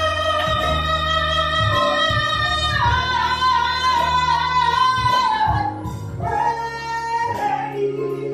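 A solo singer holding long, drawn-out notes in a praise song, over steady instrumental accompaniment.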